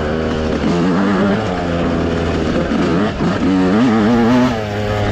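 Dirt bike engine running while riding a rough trail, its pitch rising and falling again and again as the throttle is worked.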